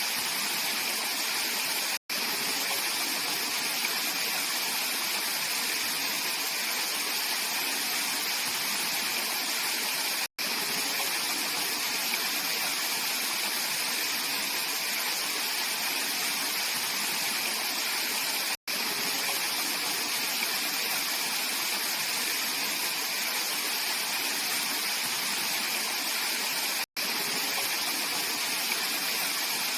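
Mountain valley stream flowing: a steady, even rush of water, broken about every eight seconds by a split-second gap of silence.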